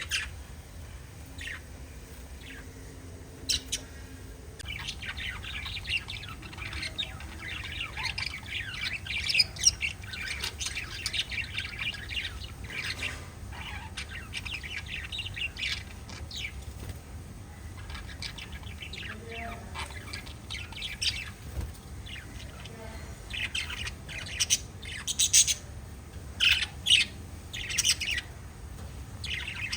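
Several small pet parrots chirping and chattering, with a run of louder, sharp calls near the end, over a steady low hum.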